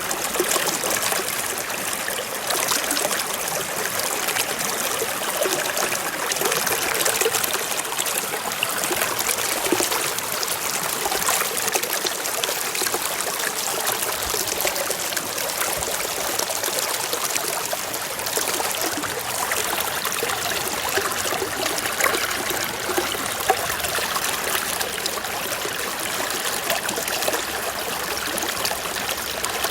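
Forest stream flowing and trickling over rocks: a steady splashing rush with many small bright splashes and gurgles.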